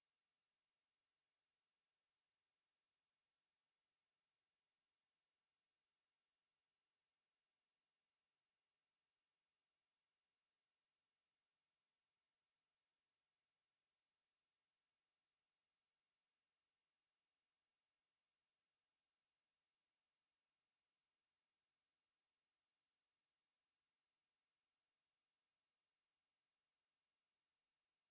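A single high-pitched 11164 Hz sine-wave test tone, held steady at one pitch and level, played as a speaker test and speaker-cleaning tone.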